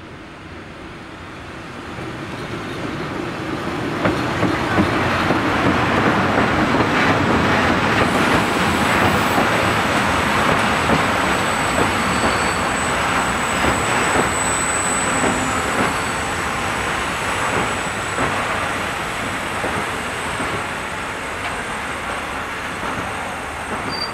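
Freight train hauled by a class 181 electric locomotive passing with a long string of tank wagons: wheels rumbling and clattering on the rails, growing louder over the first few seconds and then slowly fading. A thin high squeal is heard for several seconds in the middle.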